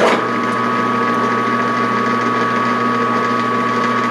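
Metal lathe switched on and running at steady speed, a constant motor and gearbox hum with a steady whine. It starts suddenly at the very beginning and holds an even pitch throughout.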